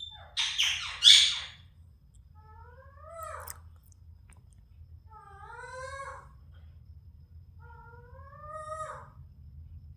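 Pet parrot giving a few loud, harsh squawks, then three drawn-out meow-like calls spaced a couple of seconds apart, each rising then falling in pitch.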